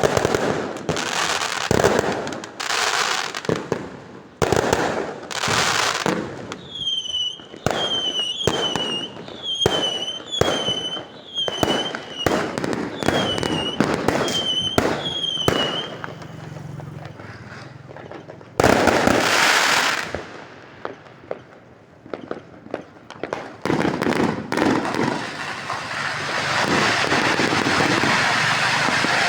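Fireworks going off in a rapid series of bangs and crackles. In the middle comes a run of short high whistles, each dipping and rising in pitch, about one a second; a louder burst follows, and the end turns into a dense, continuous crackle.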